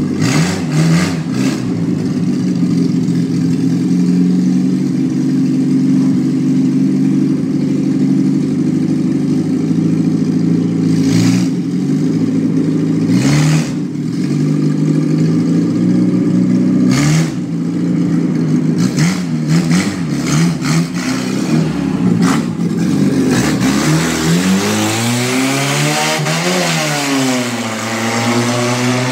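A motor vehicle engine running steadily with scattered clicks, its revs rising and then falling again near the end.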